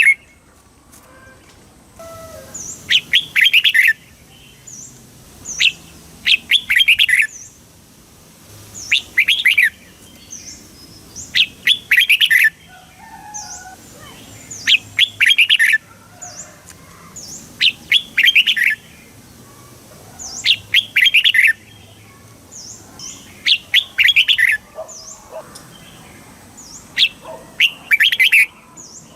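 Red-whiskered bulbul singing: short, bubbling phrases of quick notes, repeated about every three seconds, with faint thin high notes in between.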